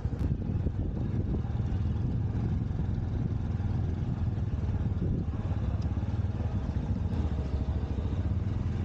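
An engine idling with a steady low rumble and fast, even pulsing.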